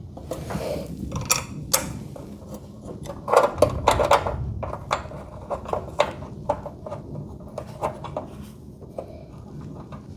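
Metal clinks and knocks of hand tools and hinge hardware being handled, with a loud cluster about three seconds in and then a run of single clicks about every half second.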